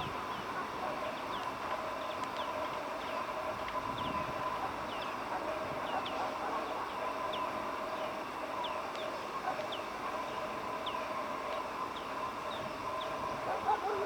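Bird calls: a steady series of short, high, downward-falling peeps, roughly one or two a second, over a steady background drone.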